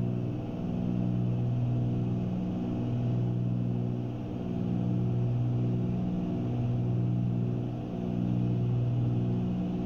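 Cabin drone of a Cessna 310Q's twin piston engines and propellers in steady cruise. The drone swells and fades regularly about every two seconds.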